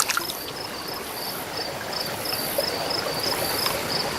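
Insects chirping in short, evenly spaced pulses, about three a second, with a higher buzzing trill coming and going, over the steady rush of creek water.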